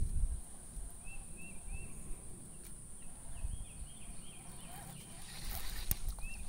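A bird calling in short, quick notes: a run of three, then a longer series, then three more near the end, over a low rumble. A sharp click sounds near the end.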